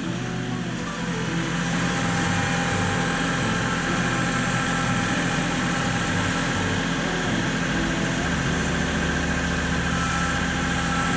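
Kubota L3901 compact tractor's diesel engine running steadily at a low, even speed.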